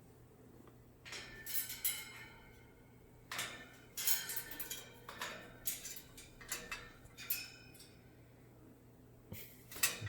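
A series of short clattering, rustling noises of objects being handled or knocked about, coming in quick clusters and then again briefly near the end.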